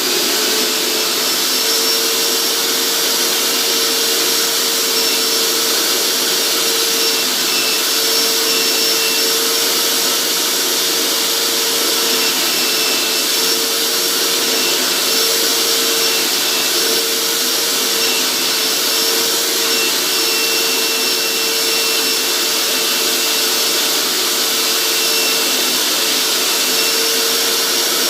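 Hoover SteamVac carpet cleaner's suction motor running steadily with a steady whine, as the hand tool sucks leftover water out of a scrubbed floor mat.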